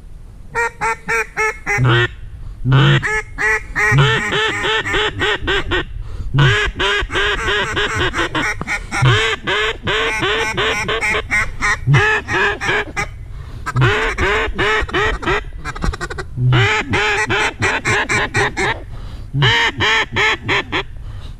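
A duck call blown in several runs of quick, loud quacks, with short pauses between the runs.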